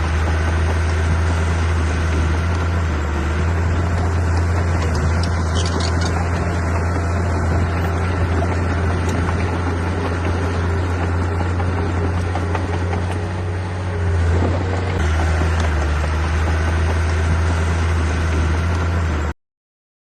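Heavy diesel machinery engine running steadily with a deep, constant hum. The sound cuts out abruptly near the end.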